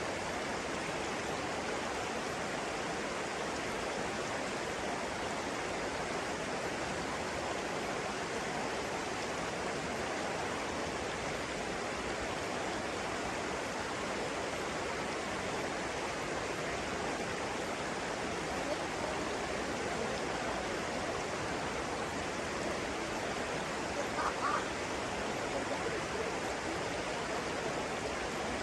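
Flowing stream water rushing steadily, with one brief faint sound about 24 seconds in.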